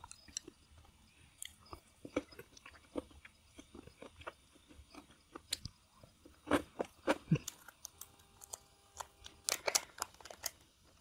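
Close-up eating sounds: irregular crunching and chewing, with scattered clicks and crackles.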